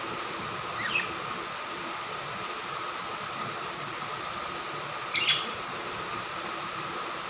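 Budgerigar giving two short chirps that slide downward in pitch, one about a second in and a louder one about five seconds in, over a steady background hiss.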